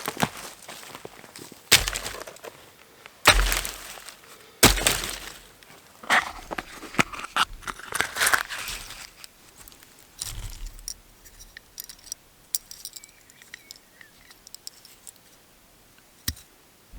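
Dry sticks being snapped by hand for firewood: three loud, sharp cracks, each with a thud, then a run of smaller crackling snaps and scattered light clicks.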